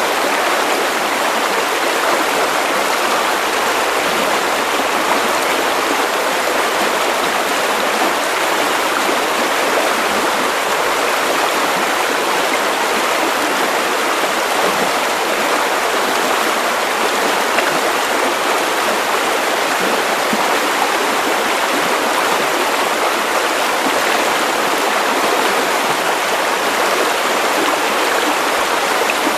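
Steady white noise: an even, unbroken hiss with no change in level or pitch, most of its weight in the middle and upper range and little bass.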